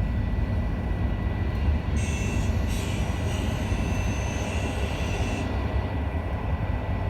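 EN57 electric multiple unit running, heard from inside the carriage: a steady low rumble from the wheels and running gear. A high squeal sets in about two seconds in and fades out some three seconds later.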